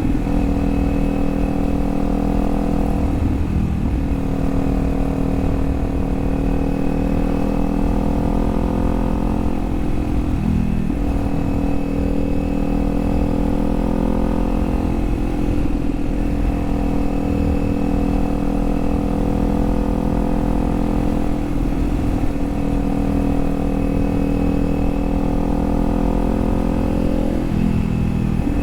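Kawasaki Z400's parallel-twin engine running steadily at cruising speed, its pitch dipping briefly and recovering about four times, over a low wind rush.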